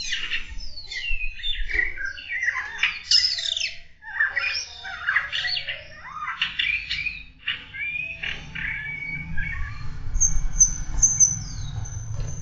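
Captive songbirds singing a run of varied, fast warbling phrases with rapid rising and falling notes. Near the end the song turns to thin, high, repeated notes, over a low rumble.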